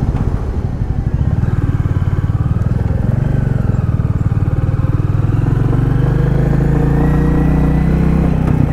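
Royal Enfield Classic 350's single-cylinder engine running steadily while the motorcycle cruises, its pitch rising and easing slightly as the speed changes.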